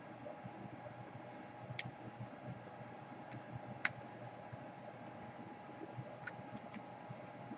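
A few faint, sharp clicks and taps of small hand tools and parts being handled at a repair bench, the clearest about four seconds in, over a steady low background hum.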